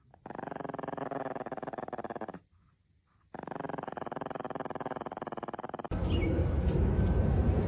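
A dog growling: two long, rumbling growls with a short pause between them. About six seconds in, the sound changes to steady outdoor background noise with a few high chirps.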